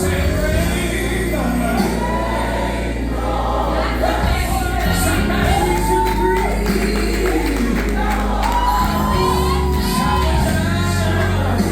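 Gospel music: a singer's long, gliding vocal runs over a band with a sustained bass that changes chord a few times.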